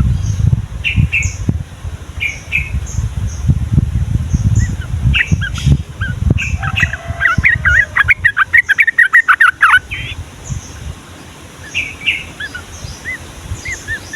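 Yellow-vented bulbuls chirping in short, repeated notes, with a loud, fast run of song a little past the middle. Low rumbling thumps sound under the calls in the first half.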